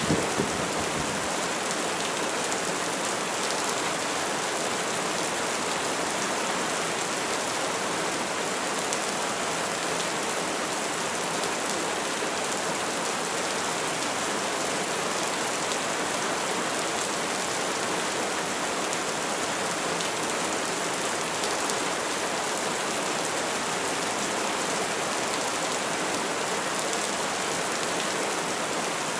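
Steady rain falling on surfaces, an even dense hiss that does not let up. A low thunder rumble dies away in the first second or so.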